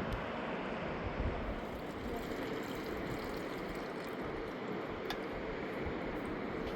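Steady rushing of a flowing stream, an even wash of water noise.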